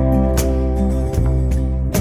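Soul-song band music between sung lines: held chords over a steady bass, with two sharp drum hits.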